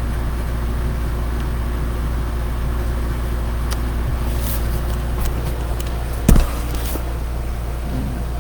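Steady low hum with a few faint steady tones, and a single knock a little past six seconds in.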